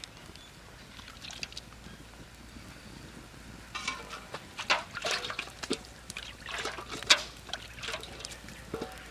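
Liquid curry splashing and trickling in a cooking pot, with a run of sharp clicks and clinks from about four seconds in.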